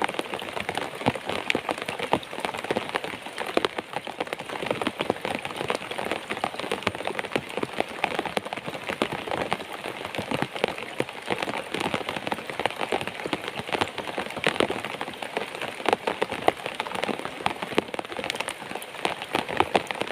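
Steady rain falling close to the microphone: a dense, even spatter of countless drop impacts.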